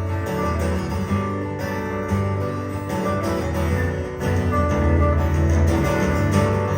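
Live band playing an instrumental passage of a country-folk song, led by strummed guitar over a steady bass, between sung choruses.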